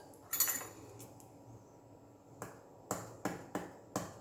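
Spoon working in a bowl of cake batter: a short scrape near the start, then from about halfway a run of sharp clicks, two to three a second, as the spoon knocks against the bowl.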